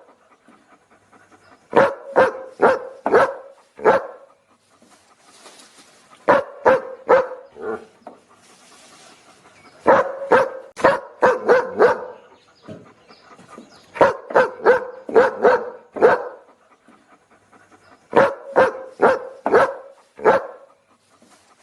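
A dog barking in quick volleys of four to six barks, a new volley about every four seconds, with short pauses between.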